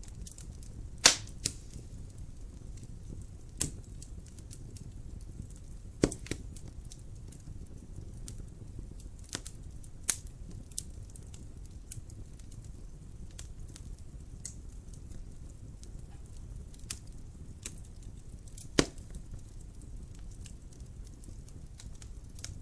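Wood fire crackling in a fireplace: a low steady rumble of the flames with scattered sharp pops and snaps, the loudest about a second in, at about six seconds and near the end.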